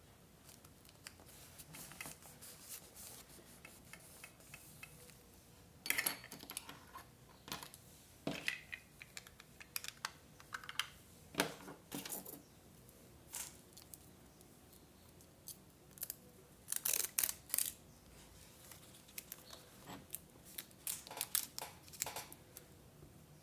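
Paper crafting at a desk: scattered rustles, taps and clicks of paper and small craft tools being handled, in short irregular clusters.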